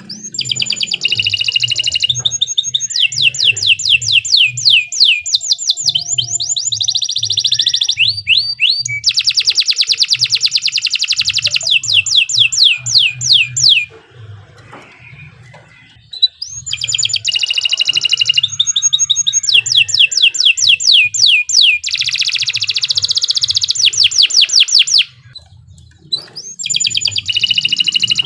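Domestic canary singing a long, energetic song of rapid trills: fast runs of repeated notes that change pitch from run to run, broken by two short pauses, one about halfway through and one near the end.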